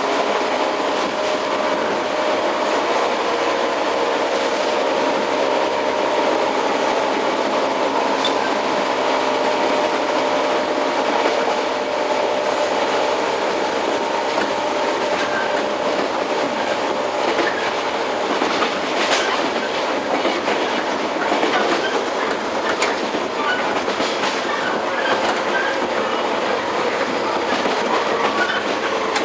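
JR 115-series electric train running at speed, heard from inside the motor car MoHa 114: a steady hum from the MT54 traction motors and gears over wheel and rail noise, with the clickety-clack of rail joints. The motor hum fades about ten seconds in, and short clicks come more often in the second half.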